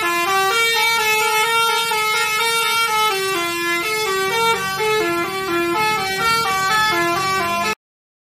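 An Indonesian tour bus's multi-tone 'telolet' horn playing a quick tune, its notes stepping up and down about three or four times a second. It cuts off suddenly near the end.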